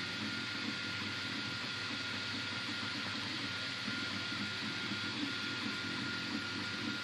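Anet A8 3D printer printing: its stepper motors whir in short runs of shifting pitch as the print head moves, over a steady fan hiss and a thin, constant high whine.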